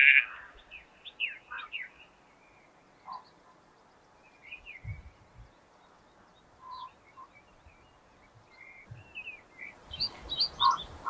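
Distant skylark song: scattered high chirps and trilling phrases, faint at first and becoming busier and louder near the end.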